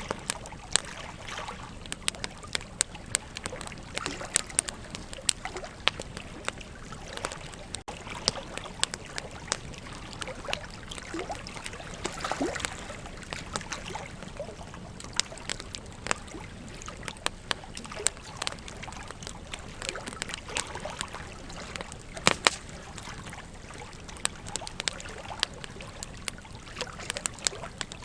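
Wood campfire crackling, with frequent irregular sharp pops, over the steady rush of a flowing river.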